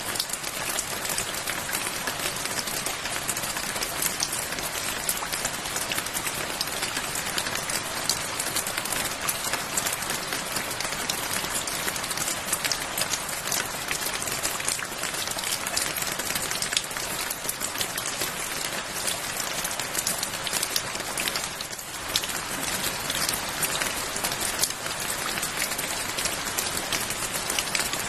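Steady rain falling, an even hiss with many separate drops clicking close by.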